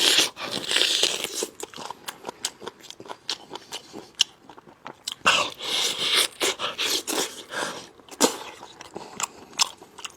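Close-miked eating: a person biting and chewing braised meat on the bone, with sharp crunches and cracks scattered throughout. Two longer spells of loud crunching come at the start and about five seconds in.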